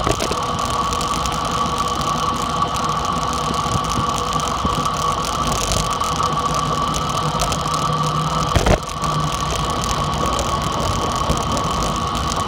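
Dirt bike engine running steadily under way, with a constant whine over the engine noise. A single sharp knock comes past the middle.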